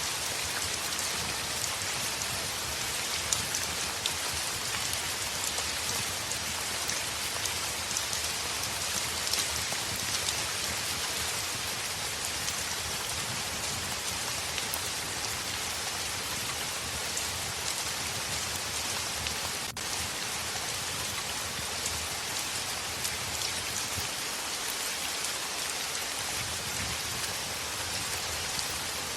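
Steady heavy rain pattering on a window glass, a dense hiss with many fine drop ticks. There is a momentary dip in the sound about two-thirds of the way through.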